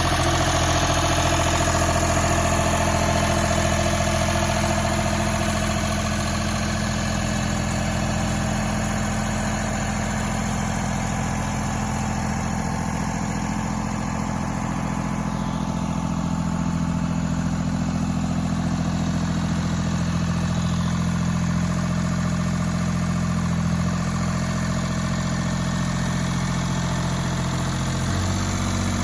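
Diesel lawn tractor engine idling steadily, its note shifting briefly near the end.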